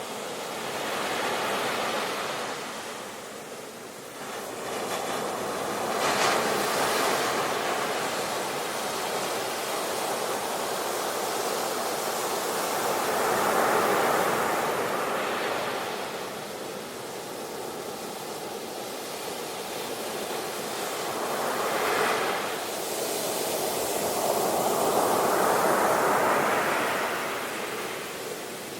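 Ocean waves breaking and washing on the shore, the surf swelling and easing in surges every few seconds, with louder breakers about six seconds in and again about twenty-two seconds in.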